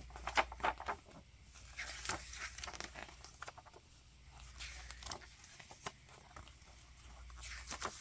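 Paper booklet being handled and its pages flipped: irregular rustles and light clicks.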